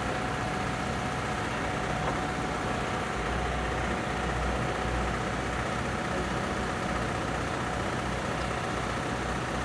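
Portable generator running steadily at constant speed, with an unchanging low rumble and a thin steady tone.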